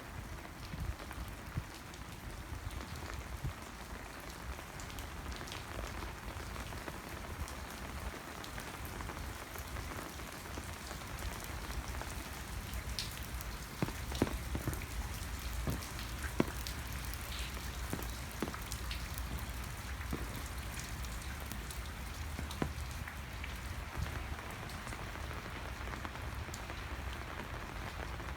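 Steady rainfall, with individual drops landing as scattered sharp ticks, a few louder ones in the middle.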